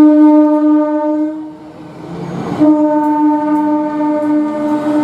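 Electric multiple unit train horn sounding two long blasts. The first ends about a second and a half in; the second starts a second later and is held to the end.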